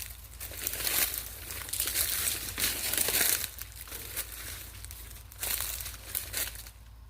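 Crackling and rustling of dry leaves and brush underfoot or being pushed through, in irregular bursts that are densest in the first half and ease off, with two short bursts near the end.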